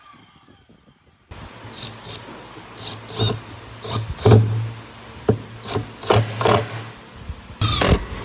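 After about a second of quiet, a low steady hum with a string of irregular sharp knocks and clacks, like tools or wood being handled on a workbench.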